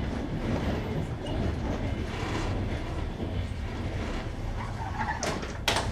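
Passenger train's wheels running over jointed rails, heard from aboard the train: a steady low rumble, with two sharp knocks close together near the end.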